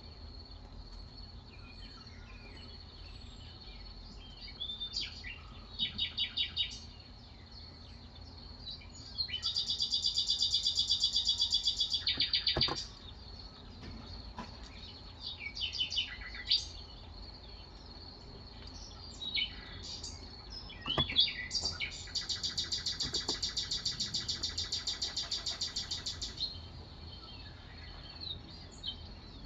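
Birds singing, with scattered chirps and two long, fast, evenly pulsed trills that are the loudest sounds, over a thin steady high-pitched tone.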